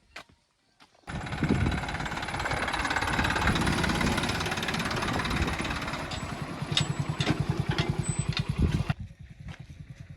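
A vehicle engine running loudly with an even low pulsing, cutting in suddenly about a second in and dropping away abruptly near the end.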